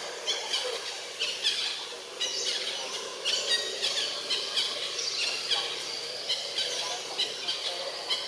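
Birds calling in the forest canopy: many short, high chirps and squeaky notes, several a second, overlapping over a steady background hiss.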